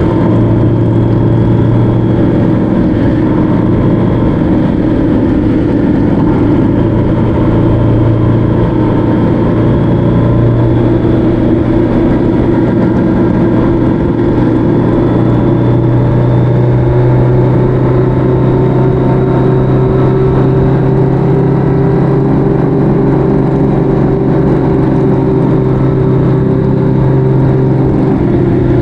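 Motorcycle engine running at a steady cruise, its pitch holding fairly even with a slight rise partway through, over a constant low rush of road and wind noise.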